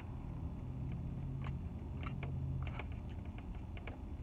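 Close-up chewing of a mouthful of chow mein, with small wet clicks and smacks. Under it runs a low traffic rumble that swells for a couple of seconds as a vehicle passes.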